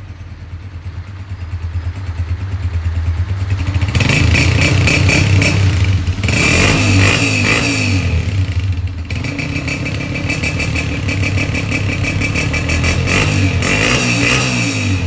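Honda 125 single-cylinder four-stroke motorcycle engine running and being revved through its exhaust silencer. The engine gets louder over the first few seconds, then is held at high revs with surges and a short dip about nine seconds in.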